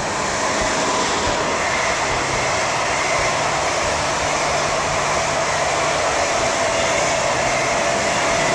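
ICE high-speed train running past at speed: a steady rushing of wheels and air with a whine over it.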